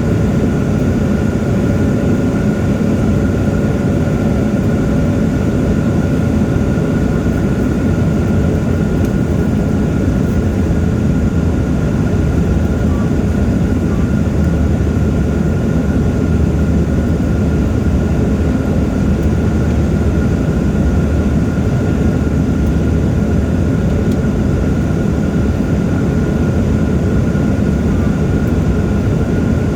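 Steady cabin noise of a jet airliner in flight, heard inside the cabin: engines and airflow making a deep, even rumble with a faint steady high-pitched whine over it.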